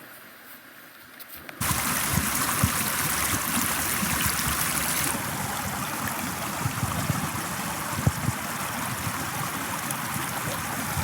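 Portable gas camp stove lit about one and a half seconds in: the burner catches and then hisses steadily, the hiss dulling slightly a few seconds later.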